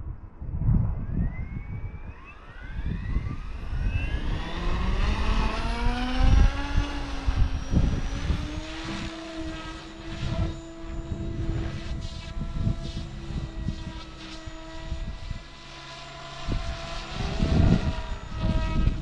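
Kraken 580 RC helicopter spooling up: a whine climbs steadily in pitch for about seven seconds, then holds steady at head speed. Wind gusts on the microphone throughout.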